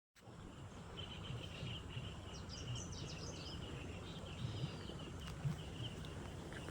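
Outdoor ambience: a low, steady rumble of background noise with a run of short, high chirps repeating from about a second in, like birds or insects calling.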